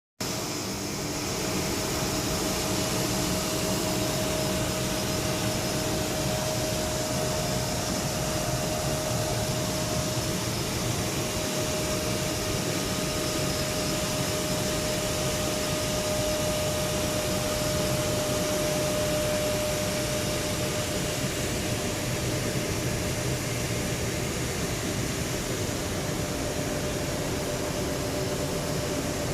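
Airbus A330 turbofan jet engine running steadily: an even rush with a steady whine through it, holding the same level throughout.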